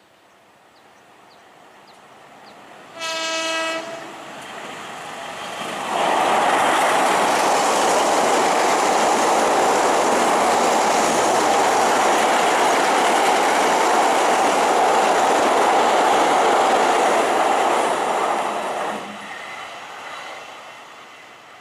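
Train horn sounding one short blast about three seconds in, then a fast conventional train passing close by, its wheels running loudly on the rails for about thirteen seconds before fading away near the end.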